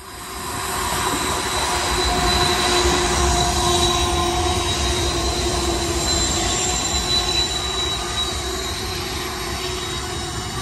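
BNSF diesel-electric locomotives passing close by on a curve: a heavy low rumble with thin, wavering squeal of steel wheels against the rail. The sound begins abruptly and swells over the first second.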